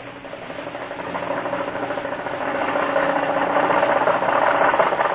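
Radio-drama sound effect of a vehicle engine chugging with a fast pulsing beat, growing steadily louder.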